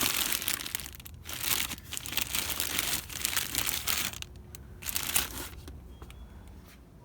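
Packaging being crinkled by hand in three bursts: a short one at the start, a longer one lasting nearly three seconds, and a brief one about five seconds in.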